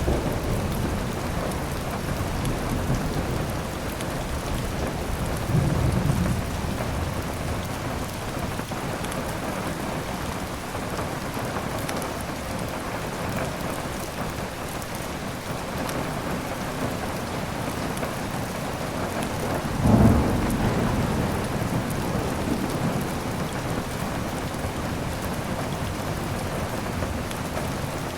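Steady heavy rain with thunder: a low rumble about six seconds in and a louder clap about twenty seconds in that rolls away over a couple of seconds.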